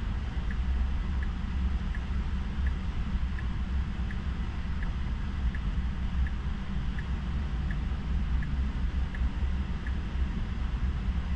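Tesla's low, steady rumble of slow driving, with a turn signal ticking evenly about one and a half times a second until it stops near the end.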